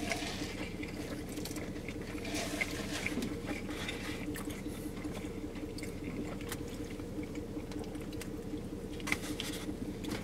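Wet chewing and lip-smacking of people eating chili-topped footlong hot dogs, with scattered soft clicks and squishes, a little louder about two to three seconds in and again near the end, over a steady low hum.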